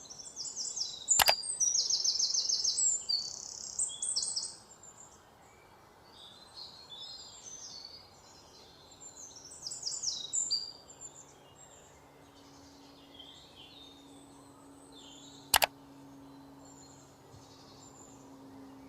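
Birds chirping in quick runs of repeated high notes, loudest in the first few seconds and again about halfway through. There are two sharp clicks, one about a second in and one near the end, and a faint low hum underneath in the later part.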